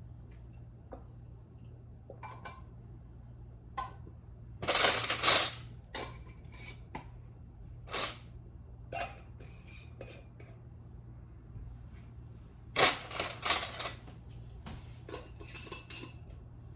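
Glass canning jars, metal lids and utensils clinking and clattering as they are handled, with two louder bouts of clatter, about five seconds in and again near thirteen seconds, over a low steady hum.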